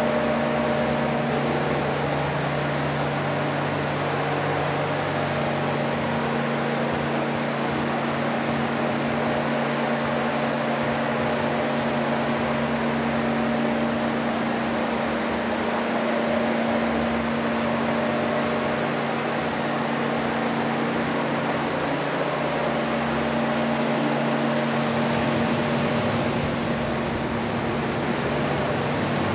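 A steady mechanical hum with a few constant tones, unchanging throughout.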